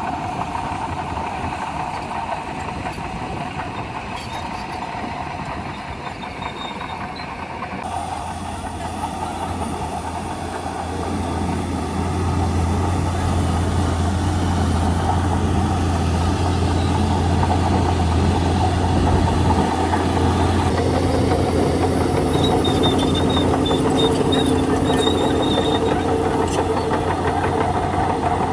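Shantui DH17C2 bulldozer's diesel engine running steadily as the machine works, with a strong low hum, growing louder from about twelve seconds in. A faint high squeak comes in a few seconds before the end.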